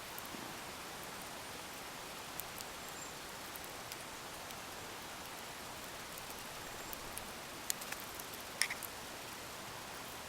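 Wood fire burning with a steady hiss and scattered sharp crackles and pops, a short cluster of louder pops near the end.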